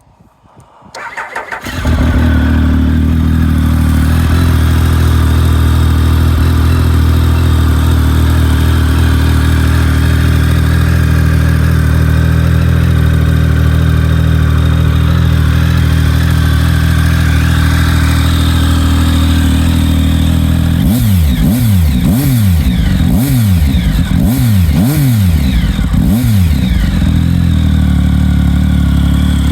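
Triumph Speed Triple 1050 inline three-cylinder engine with Arrow aftermarket silencers: it is started, catching after a brief crank, and idles steadily. About two-thirds of the way through it is blipped through about five quick revs, then settles back to idle.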